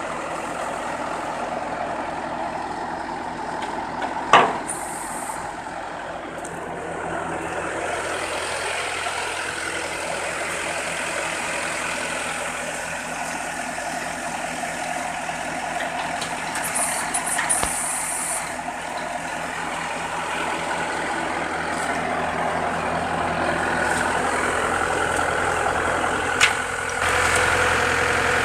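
Scania 114C 380 truck's diesel engine running steadily at idle. A sharp click comes about four seconds in, a short air hiss just past the middle, and a knock near the end, where the engine gets louder.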